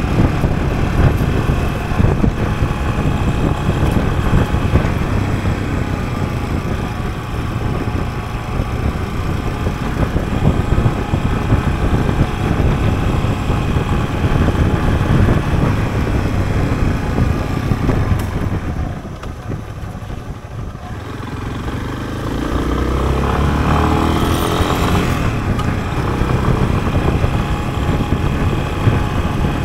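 Yamaha Serow trail bike's single-cylinder four-stroke engine running under way. About two-thirds of the way through it drops off and goes quieter for a few seconds, then revs up again.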